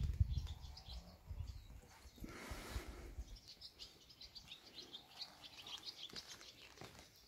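Small birds chirping, many short high notes, from about three seconds in. Before that a low rumble and a brief rush of noise.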